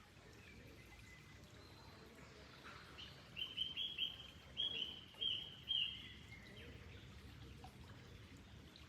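A bird calling: a quick run of about seven short, high chirps starting a little over three seconds in and lasting a couple of seconds, over faint, steady running water.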